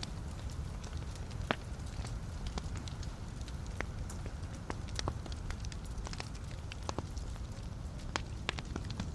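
Wood fire burning in a fireplace: a steady low rumble of flames with irregular sharp crackles and pops from the burning logs, one louder pop about a second and a half in.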